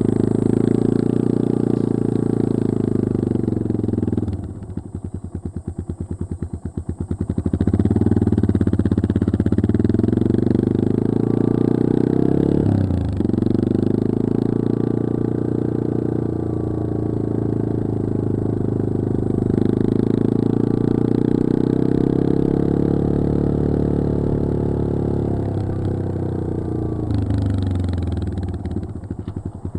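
Yamaha XT225 Serow's air-cooled single-cylinder four-stroke engine running under way. It drops to a slow off-throttle beat with separate firing pulses around four to seven seconds in, pulls up again, dips briefly near thirteen seconds, and eases off once more near the end.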